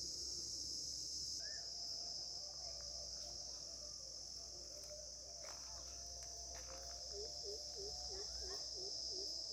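Steady high-pitched drone of insects in an orchard, with scattered short bird calls. From about seven seconds in, a low chirp repeats roughly three times a second.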